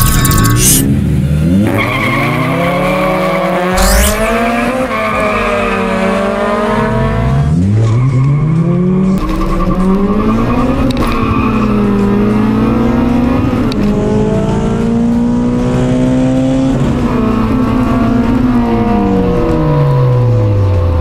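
Honda four-cylinder race engine at full throttle, climbing in pitch and dropping back at each upshift, about five gear changes in a row, heard from inside the car.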